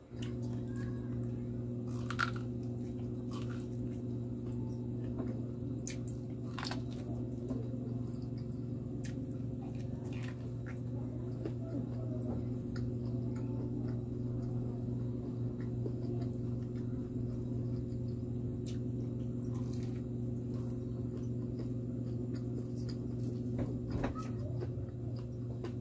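Biting and chewing corn on the cob: scattered soft crunches and clicks as kernels are bitten off the cob, over a steady low hum.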